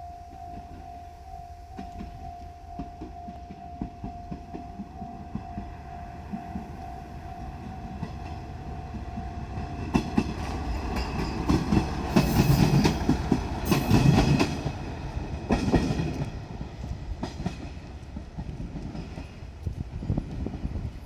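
JR Shikoku Series 1500 diesel railcar running by, its wheels clicking over the rail joints, with a high wheel squeal at its loudest before it fades. For the first half, before the train comes close, a steady pulsing warning tone sounds, then stops.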